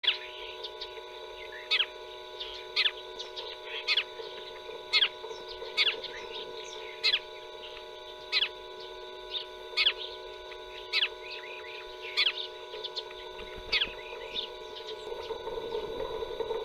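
A bird calling over and over: short, sharp calls that fall in pitch, about one a second, with softer chirps between them, over a steady hum.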